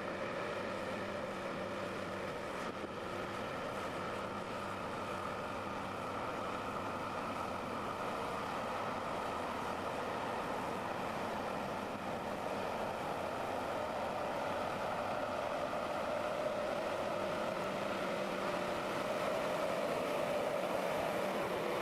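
Heavy forestry machine's engine running steadily under load, its hum rising slightly in pitch and level near the end.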